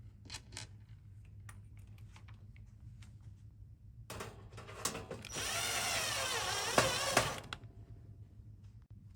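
Small handheld power drill/driver running for about three seconds, its motor pitch wavering as it drives, after a few light clicks and taps.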